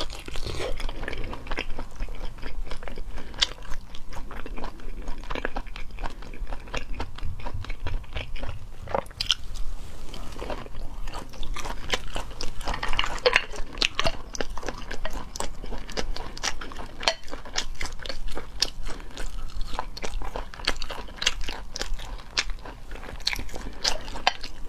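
Close-miked chewing and biting of moon snail meat: wet, crunchy mouth sounds with many irregular clicks.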